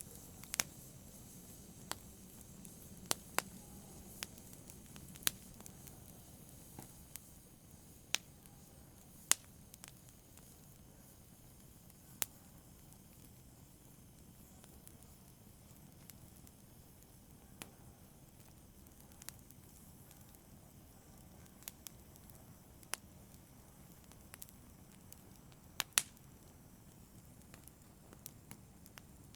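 A fire crackling softly: irregular sharp pops and snaps, a few louder than the rest, over a faint steady low hiss.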